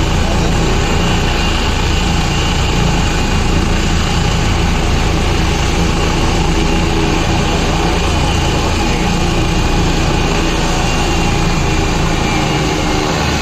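Helicopter running close by: steady, loud rotor and engine noise that holds level throughout.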